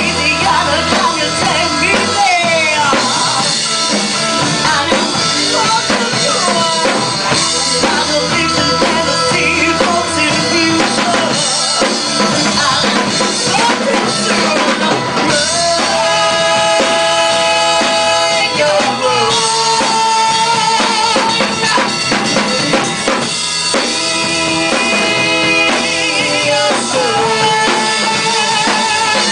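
Live rock band playing, with a drum kit keeping a steady beat under sustained, bending melodic lines.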